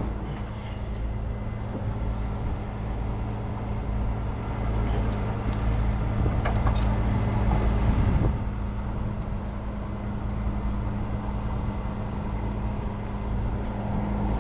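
Heavy truck's diesel engine running steadily, likely a tow truck engine held up in speed to work its lift, with a louder stretch near the middle.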